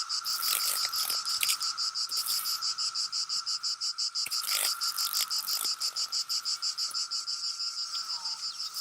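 Chorus of periodical (17-year) cicadas: a steady droning buzz under a higher, evenly pulsing buzz at about five pulses a second.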